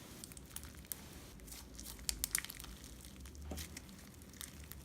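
Homemade slime packed with sequins and glitter being squeezed and kneaded by hand, giving faint, irregular crunchy crackles and pops.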